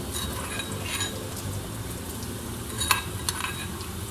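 Sliced onion and green chillies frying in oil in a pan: a steady sizzle, with a few sharp clicks over it.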